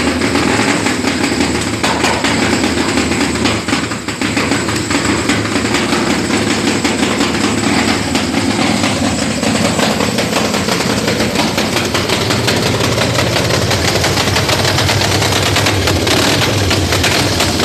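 Modified 1916 Indian Powerplus 1000cc V-twin board track racer engine running through a short straight exhaust pipe, a loud, rapid staccato of firing pulses.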